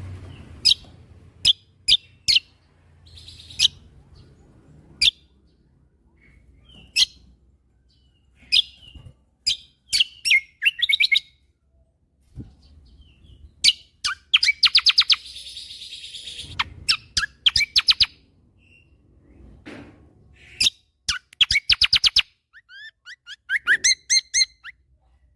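Kecial kombo songbird singing: sharp separate chirps broken up by short, very rapid trilled bursts, with a run of quick slurred notes near the end.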